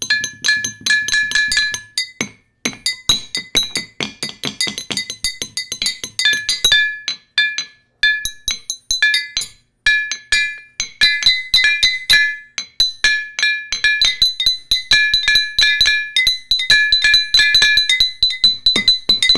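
Rapid, uneven clicking or tapping, several strokes a second, mixed with short high-pitched tones that jump between a few pitches in a tinkling, music-like pattern.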